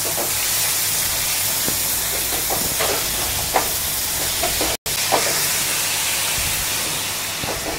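Grated carrots frying in hot ghee in a large steel pan, a steady sizzling hiss, with short scrapes and taps from a spatula stirring them now and then. The sound cuts out for an instant a little past halfway.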